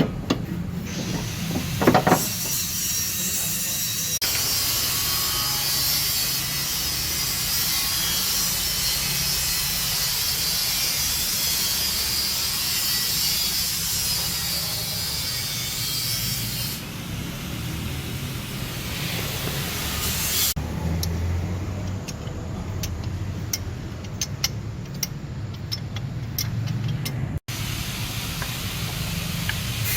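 Exhaust-workshop tool noise: a steady rasping hiss of work on metal, giving way about twenty seconds in to scattered clicks and taps, over a low steady hum.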